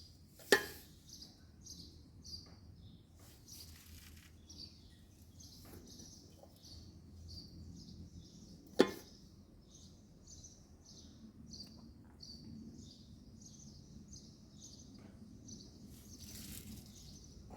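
A small bird chirping over and over in the background, faint, about one or two short high chirps a second. Two sharp clicks stand out, about half a second in and near the middle.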